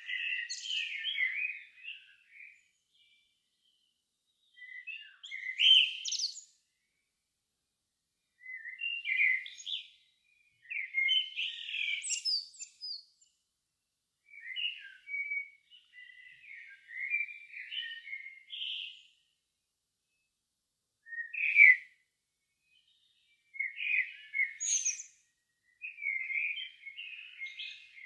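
A songbird singing at dusk in separate warbled phrases of one to a few seconds, about eight of them with short pauses between, several ending in a higher, thin flourish.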